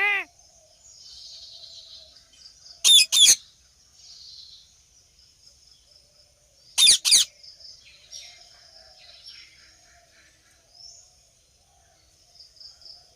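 A Psittacula parakeet gives two sharp screeches in quick succession about three seconds in, and another pair about seven seconds in. Fainter chirping of small birds runs underneath.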